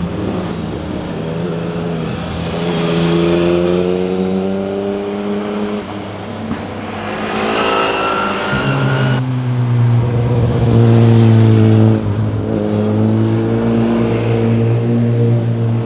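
Motorcycle engines accelerating with rising pitch, over and over, as if shifting up through the gears, with sudden changes from one engine sound to another a few times.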